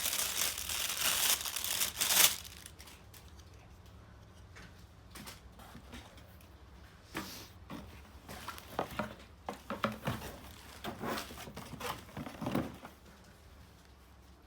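Packaging crinkling loudly for about the first two seconds as items are handled during unboxing, followed by quieter, scattered rustles and light knocks.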